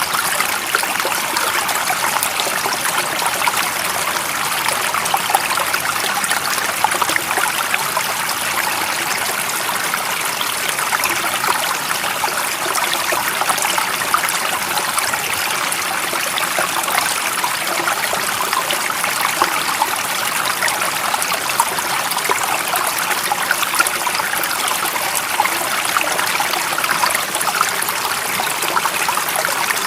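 A stream of water running and trickling steadily, an even rushing hiss with a light bubbling crackle and no pauses.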